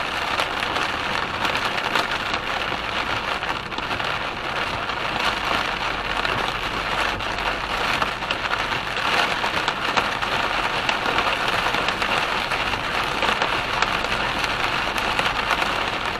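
Heavy rain falling steadily on a car in a thunderstorm, a dense hiss and patter that does not let up.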